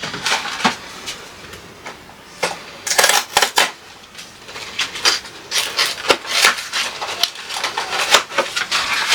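Irregular clicking and clattering of food containers and jars being handled, moved and set down on refrigerator shelves, with some clicks coming in quick runs.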